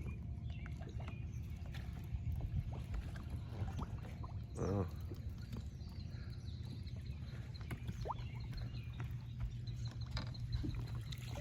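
Steady low rumble of a fishing boat on the water, with a short pitched call about halfway through and a brief rising chirp a few seconds later.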